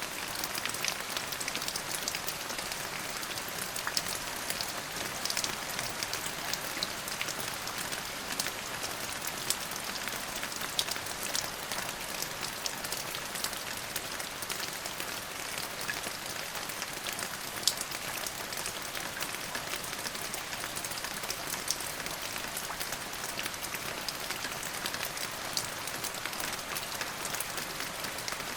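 Steady rain falling on a hard surface, an even hiss with many sharp drop ticks scattered through it.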